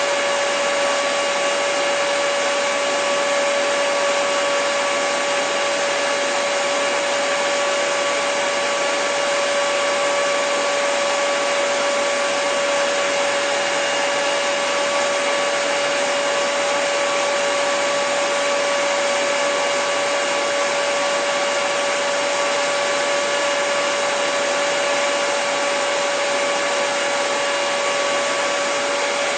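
Hair dryer running steadily: an even rush of blown air with a constant mid-pitched motor whine on top, never changing speed.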